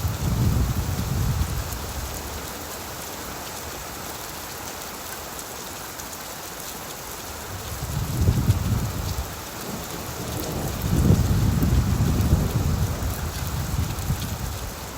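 Steady rain falling on leaves, with low rolling rumbles of thunder: one fading out at the start, a short one about eight seconds in, and a longer one from about eleven seconds to near the end.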